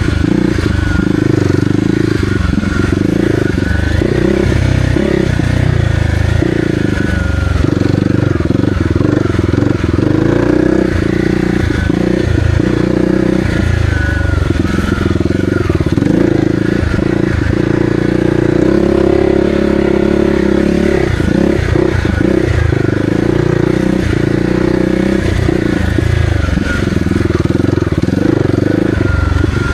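Kawasaki KLX300R's single-cylinder four-stroke engine running continuously under changing throttle, with the pitch rising and falling and brief dips as the throttle closes.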